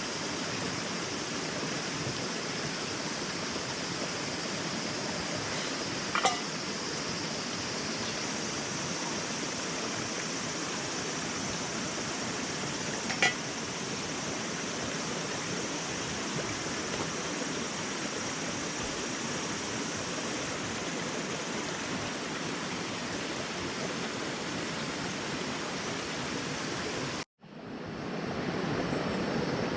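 Steady rushing noise like flowing water, with two sharp clicks, one about six seconds in and one about thirteen seconds in. The sound drops out completely for a moment near the end, then comes back a little louder.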